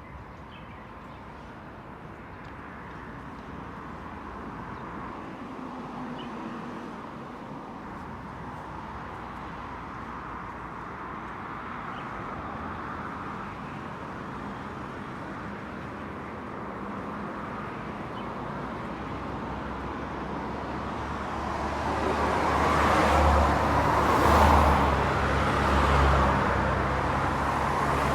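Heavy diesel truck engine running outdoors, slowly growing louder and at its loudest a few seconds before the end.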